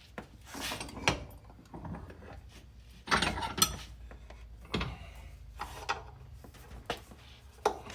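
Irregular knocks, clicks and a scrape of hand tools and metal parts being handled.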